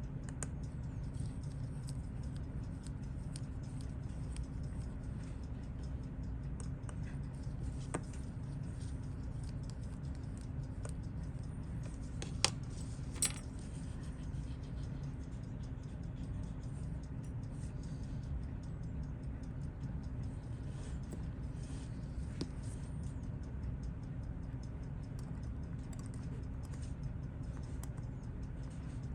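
Faint small metal ticks and clicks of watchmaker's tools working on a watch case and movement, with two sharper clicks about halfway through, over a steady low hum.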